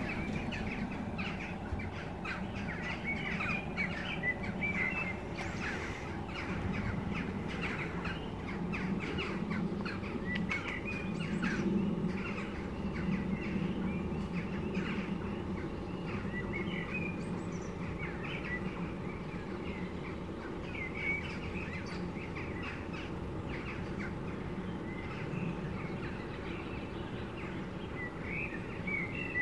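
Small birds chirping and twittering on and off, over a steady low outdoor hum.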